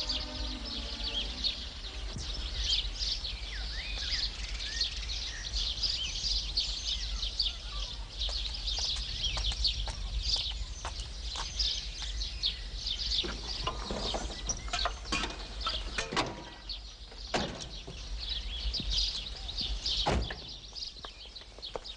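Many small birds chirping continuously, with a few sharp knocks in the last few seconds.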